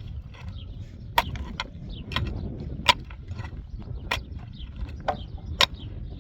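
Several sharp knocks at irregular intervals, four of them loudest, over a steady low rumble.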